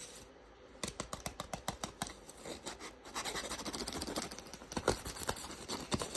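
A handmade paper model being torn and scraped apart by hand: a rapid run of crisp paper clicks and scratches, with a short lull about half a second in and a busier stretch from about three seconds on.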